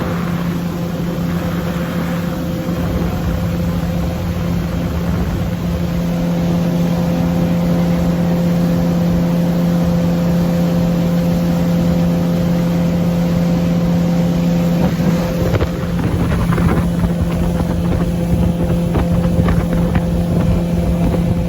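Motorboat engine running steadily at constant speed, a continuous even hum, with wind and water rush; the rushing grows louder about three-quarters of the way through.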